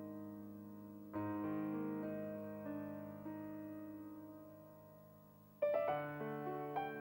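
Background piano music, slow sustained chords that ring out and fade, with a louder chord struck near the end.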